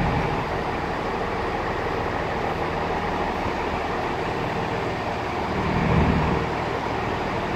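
Diesel multiple-unit train standing at the platform with its engines idling: a steady hum and rumble, with a brief low swell about six seconds in.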